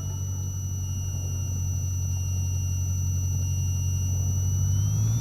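Cessna 152's Lycoming O-235 four-cylinder piston engine running, its pitch starting to rise near the end as power comes up for the takeoff roll.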